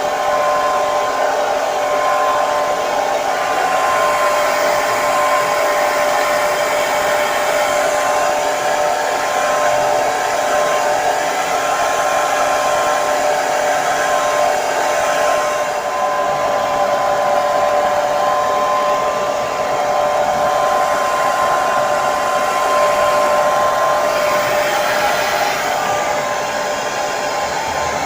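Handheld hair dryer running steadily: a constant rush of blown air with a steady motor whine over it.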